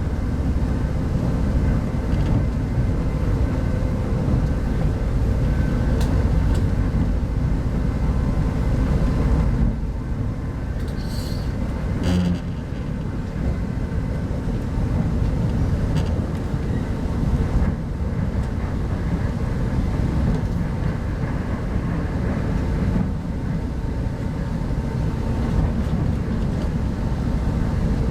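Steady rumble of a 25T passenger coach running along the track, heard from a seat inside the carriage, with a brief sharper sound about eleven to twelve seconds in.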